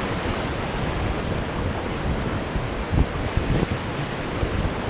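Whitewater rapids rushing around a river raft: a steady, dense rush of water, with wind buffeting the microphone and a few low thumps about three seconds in.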